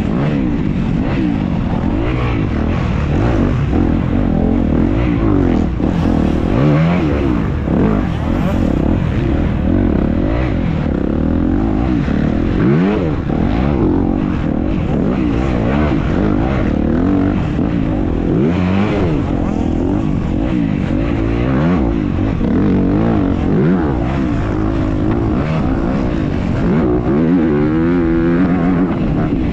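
Racing dirt bike engine under hard riding, its pitch rising and falling over and over as the throttle is worked and the gears change, heard close up from the bike's own camera.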